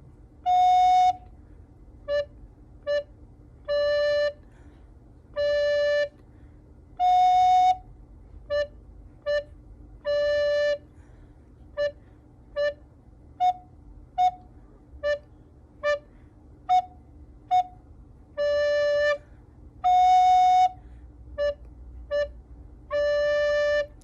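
Recorder playing a simple two-note practice tune, a lower and a higher note, mixing long held notes with pairs of short tongued ones and brief gaps between phrases.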